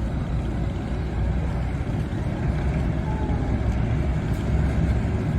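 A river ferry's 829 hp diesel engine running steadily, a continuous low rumble.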